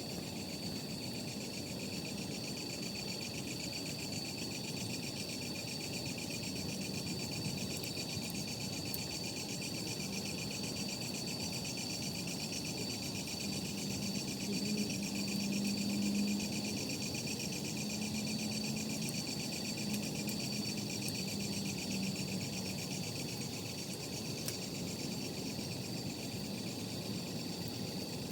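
Steady night chorus of crickets trilling, with a low hum swelling and fading through the middle and a few faint snaps from the campfire.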